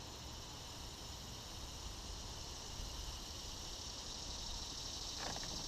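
Faint, steady high-pitched insect chorus over a low outdoor rumble, with a few sharp clicks near the end.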